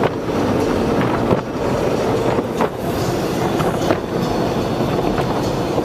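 Tunnel car wash equipment working on the car, heard from inside the cabin: water spray and scrubbing brushes give a steady, dense rumbling wash noise while coloured foam is applied.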